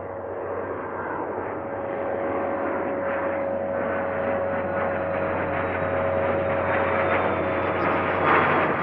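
Airplane engine running steadily and growing gradually louder, with a steady tone through the noise.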